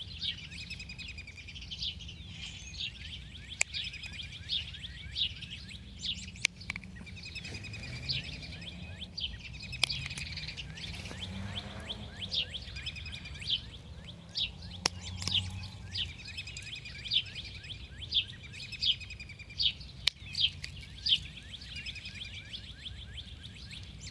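Songbirds chirping repeatedly in quick runs of short calls, with a few sharp clicks heard now and then.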